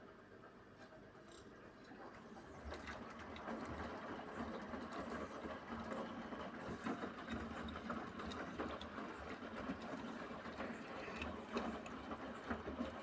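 Beko washing machine rinsing: after about two seconds the drum starts turning, with a faint motor hum and the swish and patter of laundry and rinse water tumbling in the drum.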